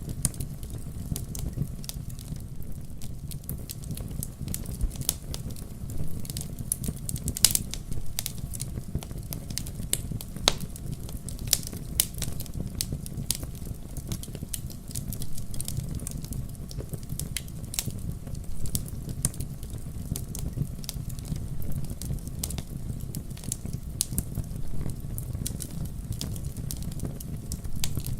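Wood fire crackling in a fireplace: frequent, irregular sharp pops and snaps over a steady low rumble, with one louder pop about seven seconds in.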